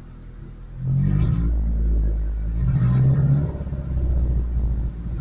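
Pickup truck engine running rough with a low rumble, revving up about a second in and again around three seconds in. Its owner takes the sound for the truck being almost out of gas.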